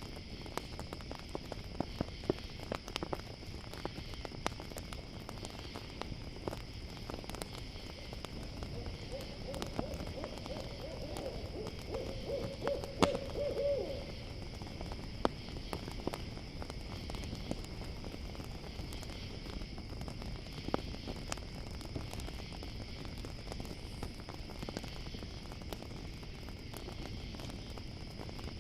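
Campfire crackling with scattered sharp pops over a steady chorus of crickets. An owl hoots in a wavering run of calls in the middle.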